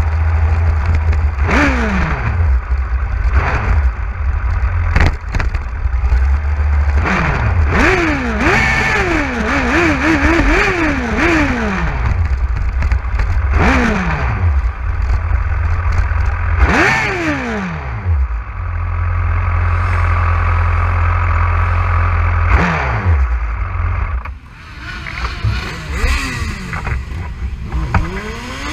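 Motorcycle engine revving up and down through the gears while riding, its pitch repeatedly climbing and dropping, over a heavy low wind rumble on the microphone. It quietens somewhat about 24 seconds in.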